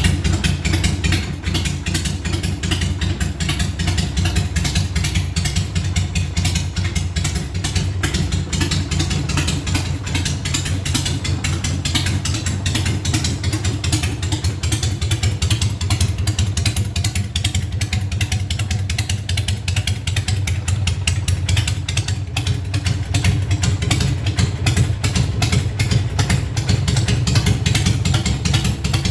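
Harley-Davidson Sportster 1200's air-cooled V-twin engine idling steadily, a low, even train of exhaust pulses with no big revs.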